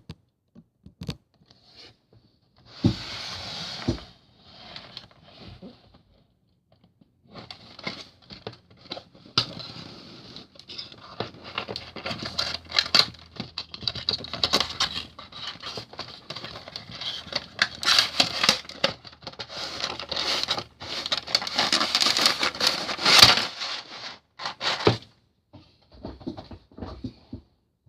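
Packaging being handled and opened by hand: rustling and scraping with many small clicks, a short burst about three seconds in, then near-continuous from about seven seconds in until shortly before the end.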